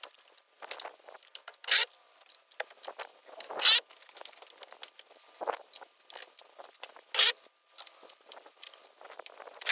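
Sped-up work noise from a seamless aluminium gutter install: irregular sharp clanks, taps and scrapes, about six of them louder than the rest, thin and high-pitched with no low end.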